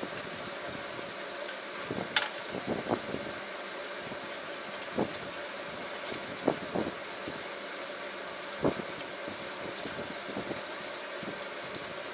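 Mouth sounds of chewing grilled chicken-heart skewers, with scattered small clicks and smacks of wooden skewers being handled over the griddle, over a steady low background hiss.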